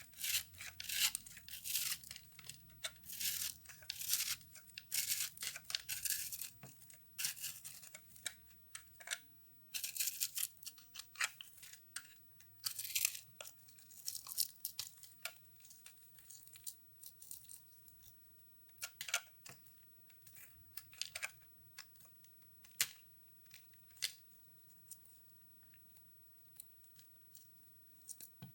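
Crisp microwave-puffed soap being cut and crushed: dry crackling and crunching, dense and continuous for about the first half, then thinning to separate crunches and clicks.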